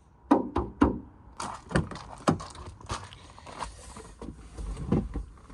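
Three sharp knocks in quick succession, followed by an irregular run of clicks and rattles, like handling or knocking noises.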